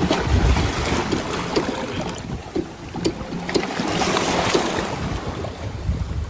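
Wind buffeting the microphone over the rush of sea water, with rumbling gusts at the start and near the end and a few small clicks.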